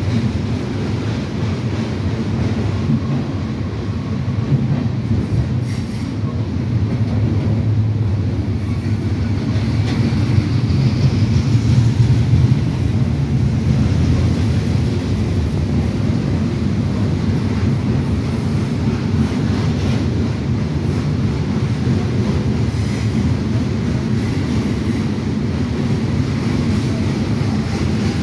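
Freight train cars rolling past on the rails: a steady low rumble of wheels and cars that swells a little about halfway through.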